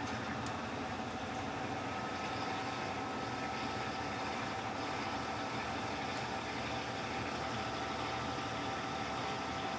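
Electrolux LTC15 washing machine running mid-cycle, a steady motor hum and whine; a second, higher tone joins about two seconds in.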